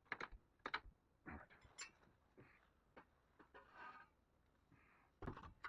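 Near silence broken by faint, scattered clicks and light knocks, with a sharper knock near the end.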